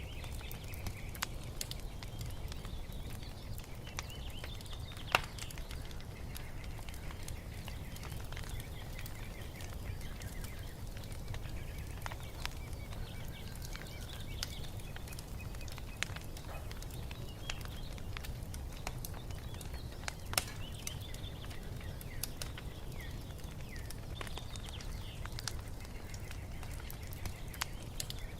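Wood fire crackling in a fireplace: a low steady rumble with frequent small snaps and two sharp loud pops, about five seconds in and again near twenty seconds. Songbirds chirp faintly behind it.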